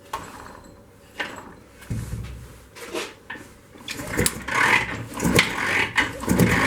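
IZh Jupiter 3 engine being turned over by hand to check for spark from its newly fitted 12-volt generator: irregular mechanical knocks and clatter, getting busier and louder over the last few seconds.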